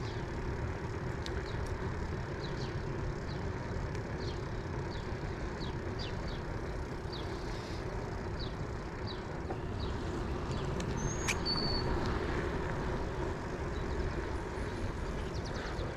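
Steady low wind and road noise from riding along on a bicycle, with small birds chirping repeatedly and a couple of brief whistled notes about two-thirds of the way through.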